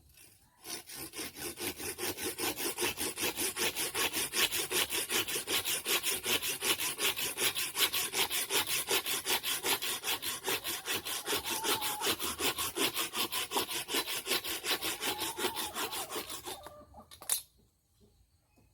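Rapid, even back-and-forth rasping strokes of a hand tool working on material, about five or six strokes a second. They stop near the end, followed by one sharp knock.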